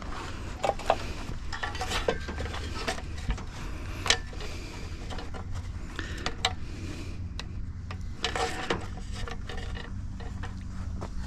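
Scrap metal being handled, with irregular metallic clinks, knocks and rattles over a steady low background hum.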